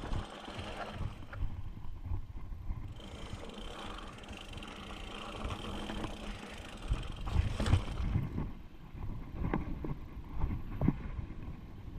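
Mountain bike rolling over rough rock: a continuous rumble of tyres and rattling bike parts, with a few sharper knocks and clunks over the second half.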